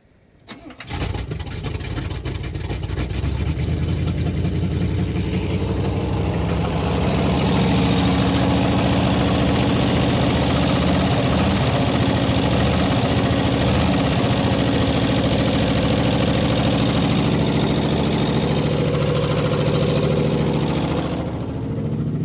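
1970 Oldsmobile Delta 88's V8 cranked by the starter for about a second, then catching and running. It runs faster and louder from a few seconds in, holds steady, and drops back near the end.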